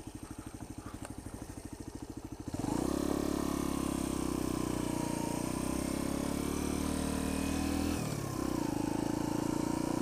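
Sinnis Apache 125's single-cylinder engine idling with an even putter, then opening up about two and a half seconds in as the bike pulls away and runs on under throttle. There is a brief dip near the end, a gear change.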